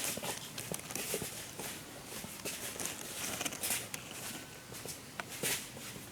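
Irregular rustling and crackling, with scattered sharp clicks like steps or handling in dry leaves and twigs.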